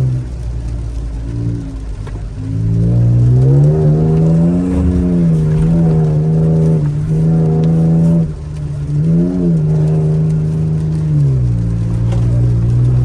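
Toyota Tacoma 3.5-liter V6 droning through a stainless straight-through FlowMaster FlowFX catback exhaust, heard inside the cab while driving. The pitch drops at the start, climbs about two seconds in and holds, dips briefly around eight seconds, then settles lower near the end as the revs rise and fall.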